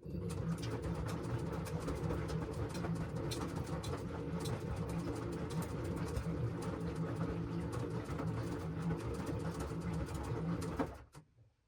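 LG washing machine drum turning during the wash, a steady motor hum with laundry and water tumbling and many small clicks and knocks. It starts abruptly and stops abruptly near the end, as the drum pauses between turns.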